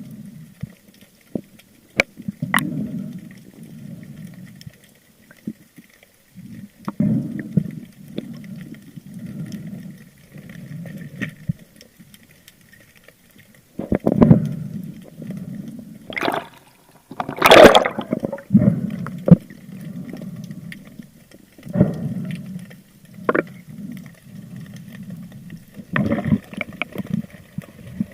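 Muffled water noise heard through an underwater camera housing: repeated low whooshing and gurgling swells every second or two, with scattered sharp clicks and one louder rush of water a little past halfway.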